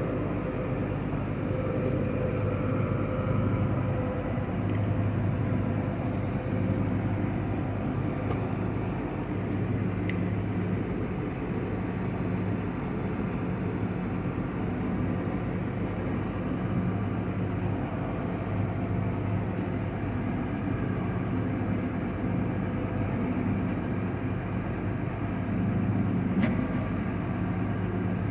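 Large diesel harvest machine, a combine or tractor, running steadily under load with an even low drone.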